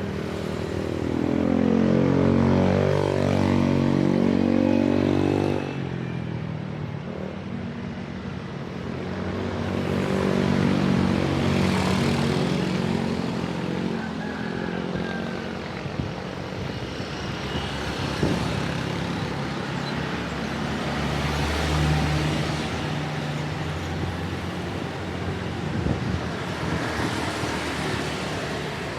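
Road traffic heard from the road: motor vehicle engines running around, one engine's pitch rising and falling for the first five or six seconds before it drops away, then a steady traffic din with vehicles passing.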